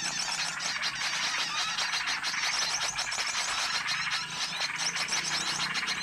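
Dense, continuous chatter of many small birds chirping and twittering at once, with quick overlapping notes: a bird-lure recording meant to draw in small wild birds.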